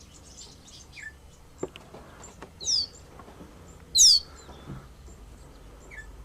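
Wild bird calls: two loud, short, high whistled notes that sweep downward, about a second and a half apart, with fainter chirps between them.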